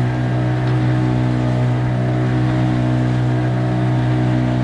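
Outboard motor of a small tinny running steadily at speed, the boat up on the plane.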